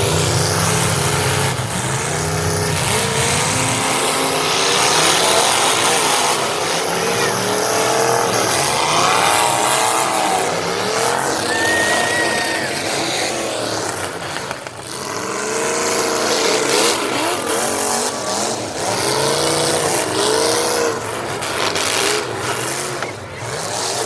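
Demolition derby cars' engines revving up and down, several at once, with tyre squeal and occasional bangs.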